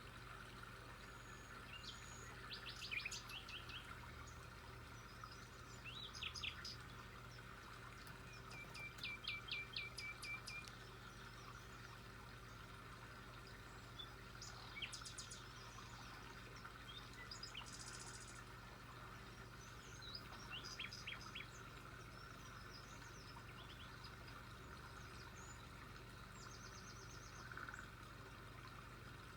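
Small birds chirping and trilling in short separate bursts every few seconds, some as quick runs of repeated notes, over a faint steady background hum.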